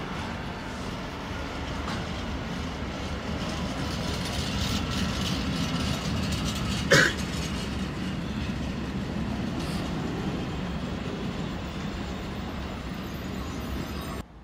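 Freight wagons, tarpaulin-covered and steel-coil hood wagons, rolling past close by: a steady rumble of wheels on rail, with one short sharp bang about seven seconds in.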